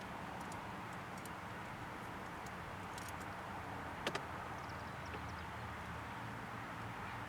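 Steady outdoor background noise with a low hum, broken by one sharp click about four seconds in and a few faint high chirps just after.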